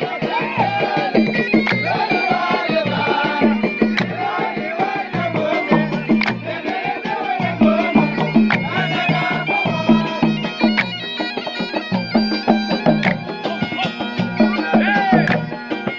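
Traditional Gulf sea-folk (fann al-bahar) music: a wavering, reedy melody over a steady, evenly repeating drum beat with sharp percussive strokes.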